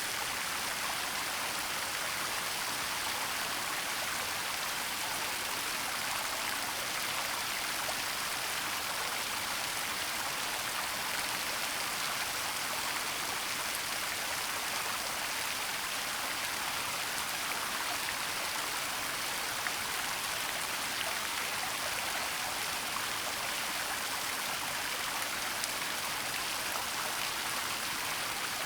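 Steady rush of a waterfall, even and unbroken, its sound lying mostly in the upper range with little low rumble.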